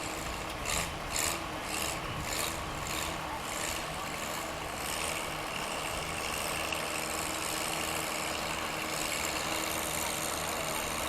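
Tractor engine idling steadily. During the first few seconds there is a run of about eight short raspy strokes, roughly two a second.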